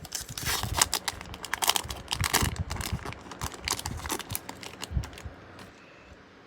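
Crinkling and rustling of a baseball card pack's wrapper being pulled off and the cards being handled, a dense irregular crackle that dies away about five seconds in.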